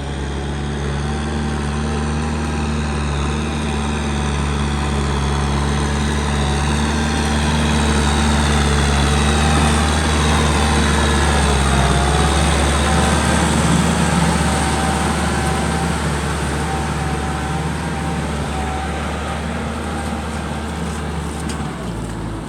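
Kubota M6040 tractor's four-cylinder diesel engine running steadily under load while plowing wet mud, growing louder toward the middle and then fading.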